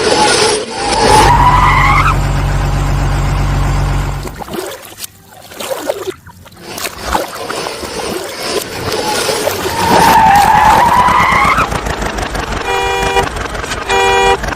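Vehicle sound effects: an engine revving up twice with a rising whine, a low engine rumble for a few seconds after the first rev, and two short horn honks near the end.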